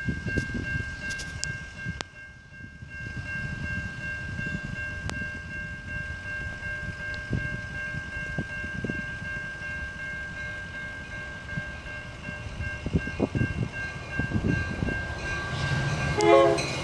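Metra commuter train approaching, cab car leading: a low rumble building near the end, then a short loud horn sound just before it reaches the microphone, over uneven wind rumble on the microphone.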